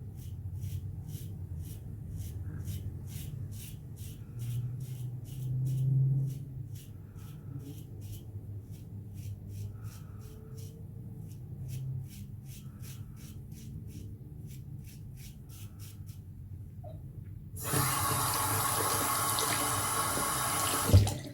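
Gillette Black Beauty safety razor scraping through stubble in quick, regular short strokes, about two to three a second. Near the end a tap runs for about three seconds, rinsing the razor, and stops with a sharp knock.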